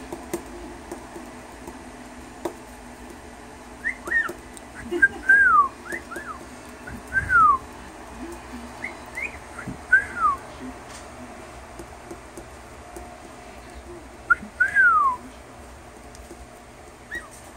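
Pet parrot whistling: a string of short whistles, many sliding down in pitch, with the loudest ones about five, ten and fifteen seconds in.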